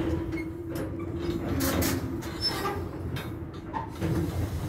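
Freight train's covered hopper cars rolling slowly past, with a steady low tone from the moving cars and a few short scraping, hissing noises and brief squeaks from the wheels and couplings.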